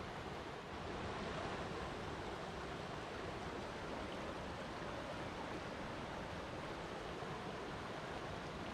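Flowing water rushing steadily, an even hiss with no breaks or individual splashes.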